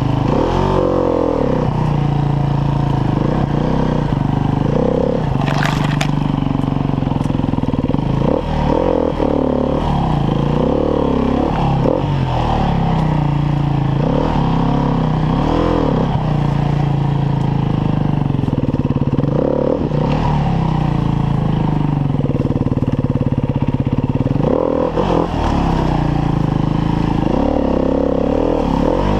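Enduro dirt bike engine on the throttle in short bursts, its pitch rising and falling again and again as the bike crawls over rocks. A sharp knock sounds about six seconds in.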